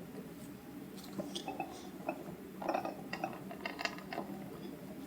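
Faint, scattered small clicks and taps of a wood-fired handmade ceramic gaiwan being turned around in the hands, the clicks bunching up a little past halfway.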